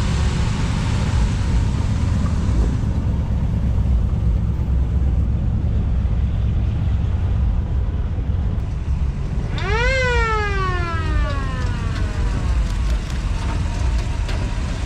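Low, steady rumble of car engines running. About ten seconds in, a siren-like wail rises quickly, then falls slowly away over a few seconds.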